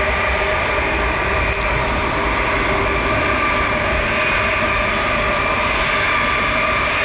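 Jet airliner engines running steadily: a loud, even rush of noise with a constant whine of several steady tones.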